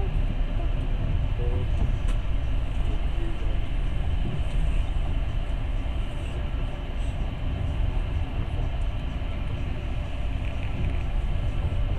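Passenger train running along the line, a steady rumble and rushing noise heard from inside the carriage.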